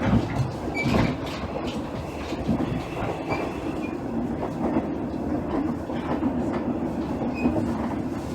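Inside a JR East KiHa 110 series diesel railcar (KiHa 112-103) under way: a steady diesel engine drone, with the wheels clicking over rail joints and a faint high wheel squeal.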